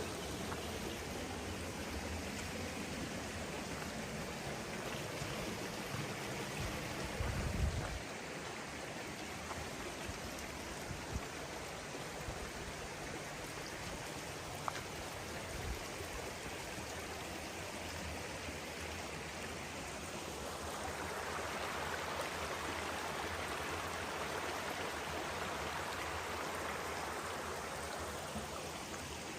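Stream rushing steadily over rocks, growing louder for several seconds in the second half. A brief low thump comes about seven seconds in.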